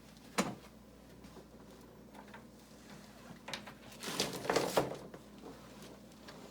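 River rocks being handled and set in place: a single sharp clack about half a second in, then a short cluster of knocks and scraping a little past the middle.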